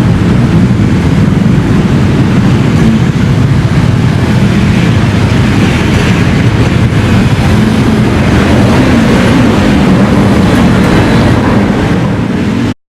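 Steady loud rumble of a vehicle in motion, heaviest in the low range, which cuts off suddenly near the end.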